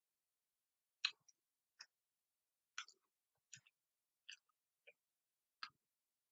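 Faint eating sounds: about seven short, separate clicks over four seconds, with near silence between them.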